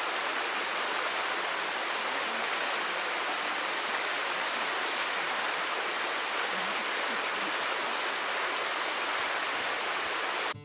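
Steady, even rushing of water, a continuous hiss with no breaks or distinct drops.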